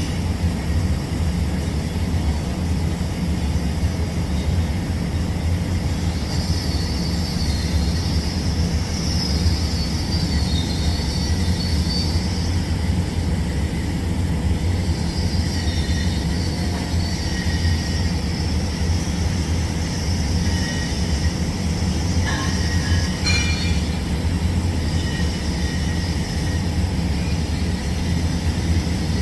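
TIG welding arc on a pipe root pass: a steady low buzz and hiss, with a faint high whine that wavers in pitch for a few seconds near the middle.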